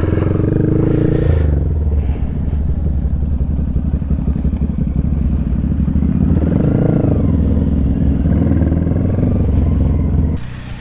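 Small single-cylinder engine of a 2025 Honda Grom, heard through an aftermarket Zoom Loop exhaust, running at low speed under light throttle. Its pitch lifts briefly about six to seven seconds in, and the sound stops abruptly just before the end.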